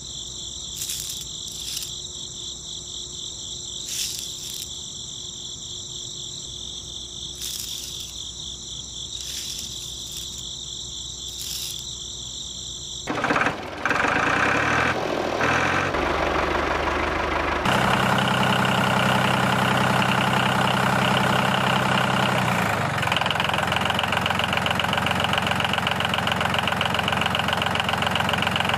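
Crickets chirp steadily, with a few clicks. About 13 seconds in, a small motor starts up and runs steadily and loudly to the end, its tone shifting briefly a few seconds after starting.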